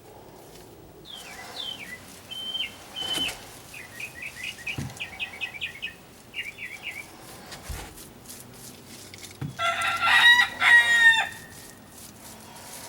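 A rooster crows once, loudly, about ten seconds in, the call breaking into two parts. Before it, small birds chirp in short repeated notes.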